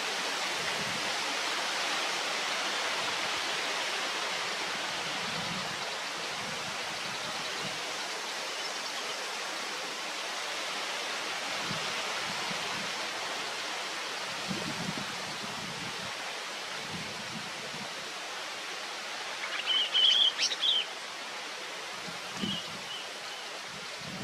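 A steady outdoor hiss like running water or wind, with a short burst of high bird chirps about twenty seconds in and one faint chirp a couple of seconds later.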